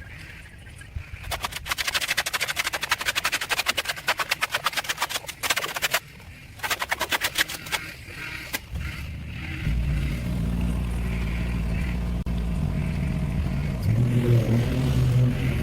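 A fast, rattling clatter in two bursts, the second shorter. After it a small engine starts and runs steadily with a low hum.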